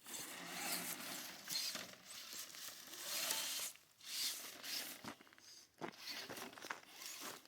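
Irregular crunching and scraping of dirt and gravel, rising and falling, with a few sharp clicks around the middle.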